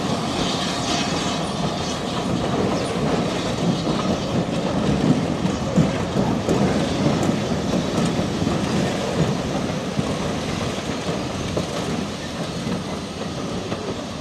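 Railway passenger coaches and a tank wagon rolling slowly past over pointwork, their wheels clattering over the rail joints and crossings. The sound grows a little quieter toward the end.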